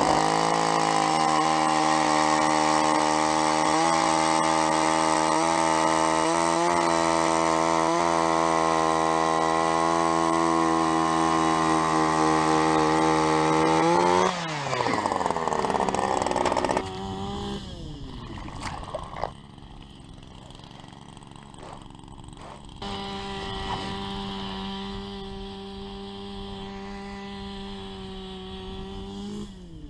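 Power ice auger running steady at full speed while drilling through the ice, winding down with a falling pitch about fourteen seconds in. A second, quieter run starts later and cuts off near the end.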